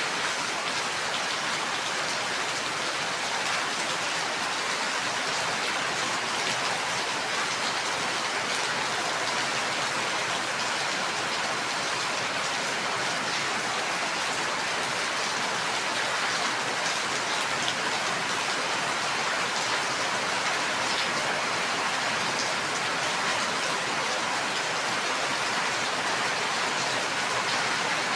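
Steady rain falling, an even hiss of drops on a surface with faint individual drop ticks, unchanging in level.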